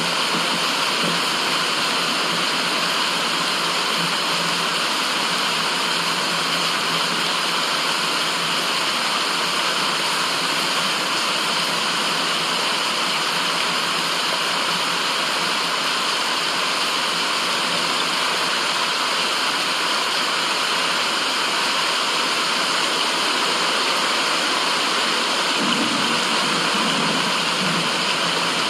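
Steady white noise, an even, unbroken hiss like rushing water, with most of its strength in the upper-middle range.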